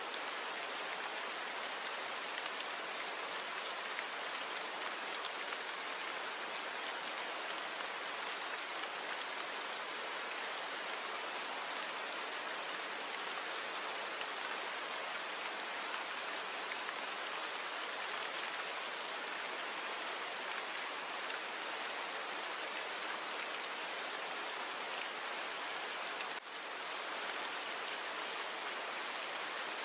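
Steady rain falling, an even hiss of many drops with no rumble of thunder. The level dips for a moment near the end.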